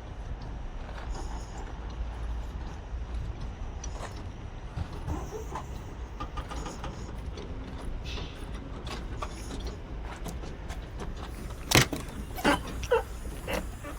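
Scattered clicks and handling sounds from work on a truck's AC blower motor, over a steady low rumble, with four sharp metallic knocks close together near the end.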